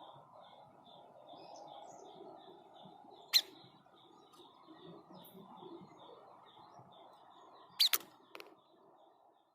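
White-chested babbler (tepus dada putih, the 'sniper' bird) giving its sharp, shot-like call: one loud call about a third of the way in and a quick double call near the end, followed by a fainter one. A fast, even series of faint high chirps and a low background hiss continue underneath.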